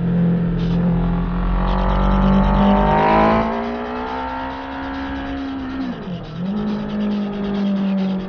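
Honda CBR1000RR Fireblade's inline-four engine heard from on board while riding. It holds a steady note at first, then revs rise under acceleration, with a brief drop and recovery in revs about six seconds in.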